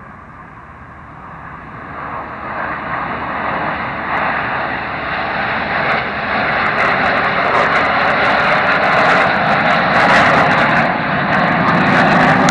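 Aircraft engine noise from a flyby, swelling steadily louder over several seconds as the plane approaches, with a crackling edge at its loudest, then cutting off suddenly at the end.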